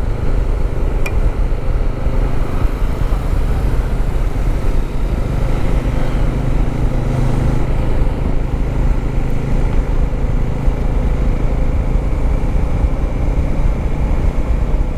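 Motorcycle engine running at a steady cruise while riding, with heavy wind rumble on the microphone.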